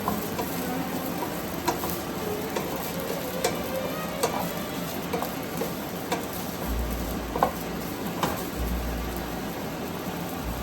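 Food frying in hot oil in a pan: a steady sizzle with scattered sharp pops of spattering oil.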